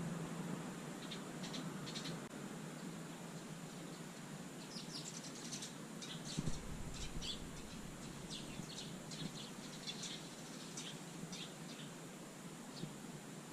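Eurasian tree sparrows chirping: quick, short, high chirps in scattered bursts, thickest in the middle. One dull thump about six and a half seconds in.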